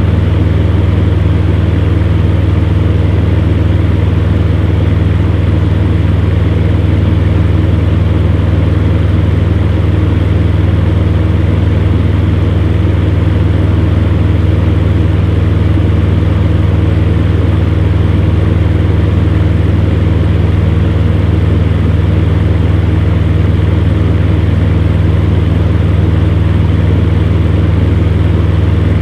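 Electric fan heater running steadily: a constant low motor hum under the even rush of blown air.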